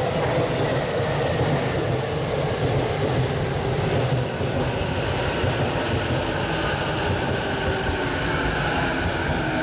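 Saikyo Line electric commuter train running at the station: a steady rumble of wheels on rail with a motor whine that rises and grows louder in the second half.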